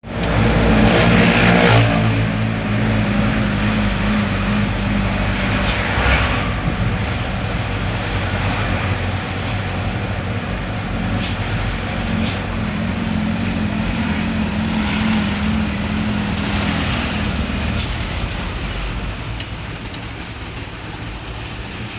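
Dump truck engine running steadily with a low hum, loudest in the first two seconds.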